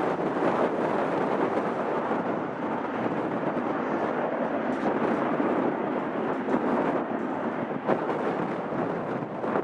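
Jet airliner engines roaring at high power, a steady rough rumble with occasional crackles.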